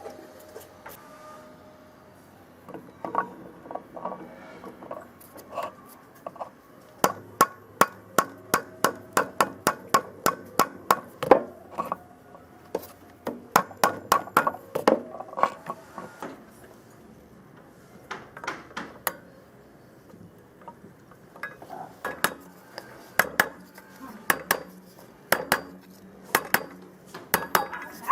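Series of light, sharp metallic taps and clinks, two or three a second, coming in runs with short pauses between them: metal parts and tools being knocked together while an old hand planer is worked on.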